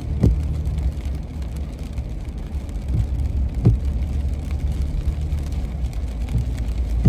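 Car driving, heard from inside the cabin: a steady low road rumble, with a couple of short thumps, one just after the start and one a little over halfway through.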